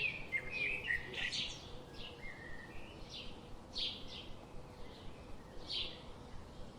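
Birds chirping: short high calls repeated at irregular intervals, thinning out after about four seconds.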